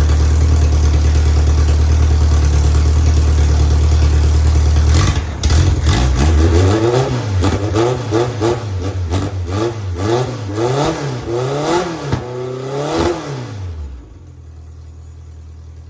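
Van Diemen Formula 2000 race car's 2-litre inline-four running steadily, then blipped about eight times in quick succession, each rev rising and falling back, before dropping to a quieter steady hum near the end. The engine has just been brought back to life after some 15 years in storage, its ignition points freshly cleaned.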